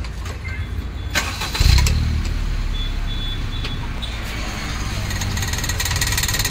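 Maruti Suzuki Celerio's three-cylinder petrol engine starting about a second and a half in and then idling steadily, run for a tailpipe emission test.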